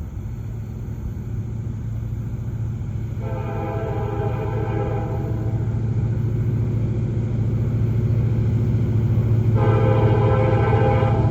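Approaching freight train's diesel locomotive rumbling, growing steadily louder, as its multi-note air horn sounds two long blasts: one about three seconds in lasting some two seconds, and another near the end.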